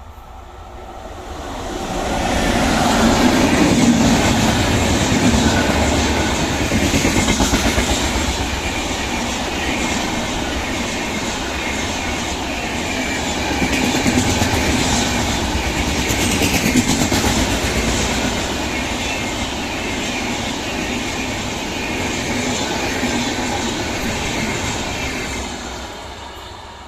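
The Brindavan Express passenger train passing at speed, its wheels clattering over the rail joints. The sound swells over the first two or three seconds, stays loud for over twenty seconds, and falls away near the end.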